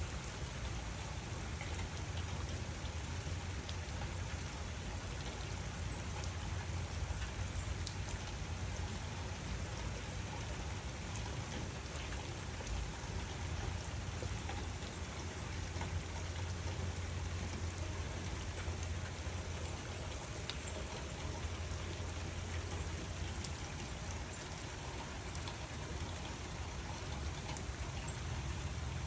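Steady rainfall, an even hiss with scattered drop ticks over a low rumble.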